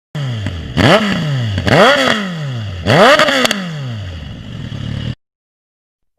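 Motorcycle engine revved three times in quick succession, each rev rising sharply in pitch and falling back slowly, then dropping toward idle before it cuts off abruptly near the end.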